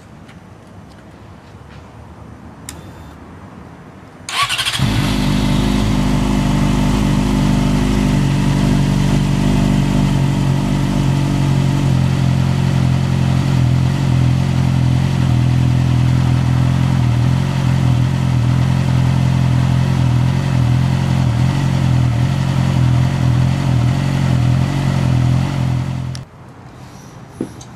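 Yamaha YZF-R6 inline-four sport bike engine starting about four seconds in, then idling steadily for some twenty seconds before being switched off near the end.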